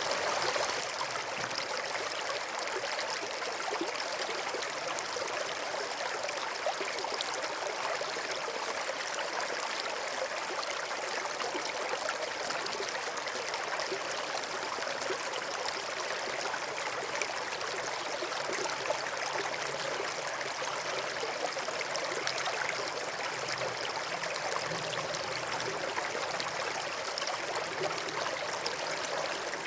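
Small stream of running water, a steady trickling and gurgling flow without pause.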